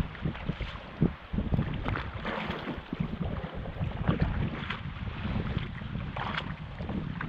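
Sea water splashing and sloshing around a kayak in irregular splashes, with wind buffeting the microphone as a low rumble underneath.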